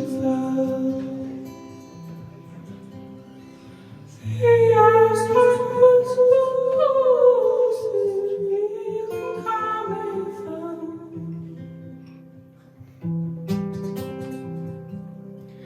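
Live band music with guitar and a singing voice, held notes and a sliding melody line; it swells loudly about four seconds in, fades, and comes back in near the end.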